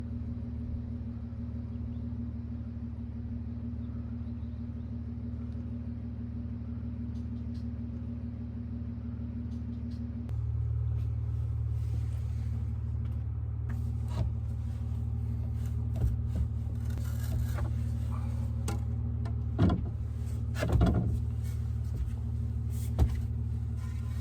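Steady low hum of a car, heard from inside it, stepping up in level about ten seconds in, with a few sharp knocks and clicks in the second half.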